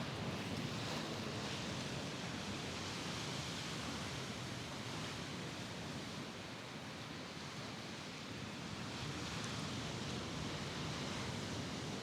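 Mediterranean surf washing against the shore, a steady hiss that slowly swells, eases off in the middle and builds again.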